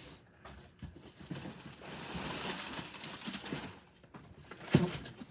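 Cardboard boxes and plastic packaging being handled: scattered clicks and taps, a rustle a couple of seconds in, and one sharp knock near the end.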